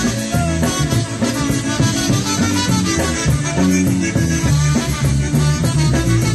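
Live polka band playing a concertina polka: a bellows-reed melody over a steady bass and dance beat.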